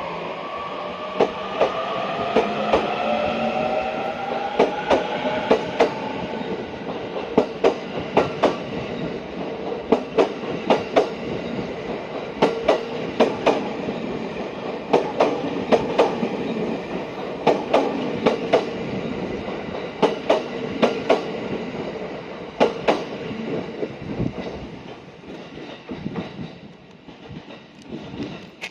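Electric commuter train pulling out of the station: a whine rising in pitch in the first few seconds as it accelerates, then wheels clacking over the rail joints in pairs as each car passes. The sound fades near the end as the train moves away.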